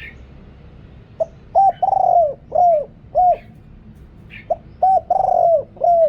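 Spotted dove cooing in two phrases of about five notes each: a short opening note, then coos with one longer, drawn-out coo in the middle. The phrases begin about a second in and again about four and a half seconds in. This is a deep-voiced male's call, the kind used as a decoy to draw wild doves.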